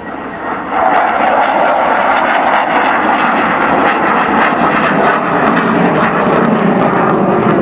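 Jet aircraft flying past: loud, steady engine noise rises sharply about a second in and holds, its pitch sinking toward the end as the aircraft passes.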